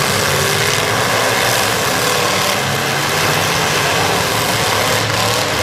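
Demolition derby car engines running loud and steady, amid a dense haze of noise.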